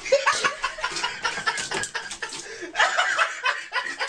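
People chuckling and laughing in short, choppy bursts.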